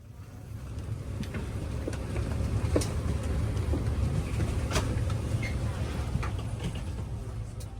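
Airbus A330-300 cabin noise: a steady low rumble with a few sharp clicks and knocks, the clearest about three and five seconds in.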